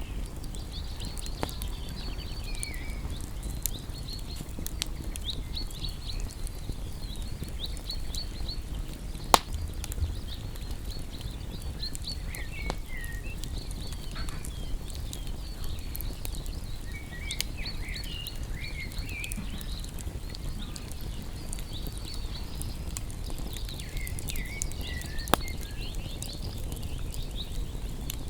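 Wood campfire burning with a low steady rumble and frequent sharp crackles and pops, the two loudest pops about nine and twenty-five seconds in. Birds chirp in the background.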